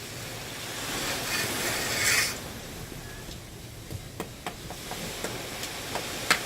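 Small fire of beach debris crackling: scattered sharp cracks and pops, the loudest near the end, after a rush of noise that swells and dies away about two seconds in.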